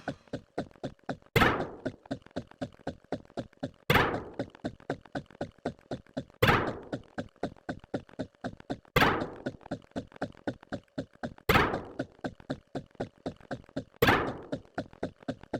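Repeating impact sounds: a loud thunk about every two and a half seconds, with a fast, even run of short knocks or clicks between them, several a second.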